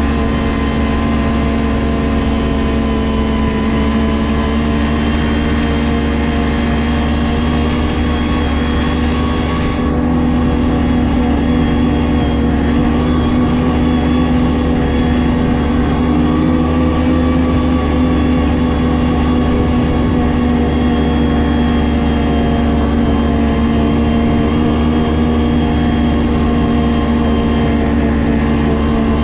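Ski-Doo 600 GSX 600 HO snowmobile's two-stroke engine running steadily under way, a constant drone with small rises and falls in pitch.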